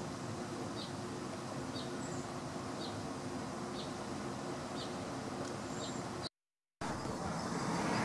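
A small bird chipping, a short high note about once a second, over steady background noise with a low hum. The sound drops out for half a second near the end.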